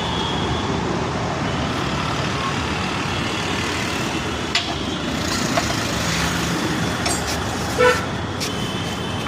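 Steady road traffic noise, with two sharp clicks about halfway through and a short vehicle horn toot near the end.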